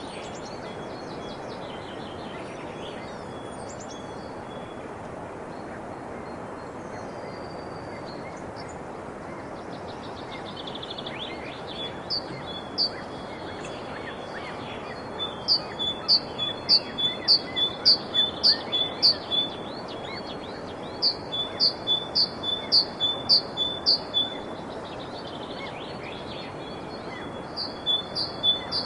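A songbird repeating a short, high, sharply falling chirp about twice a second in three bouts, starting around the middle, over a steady background hiss.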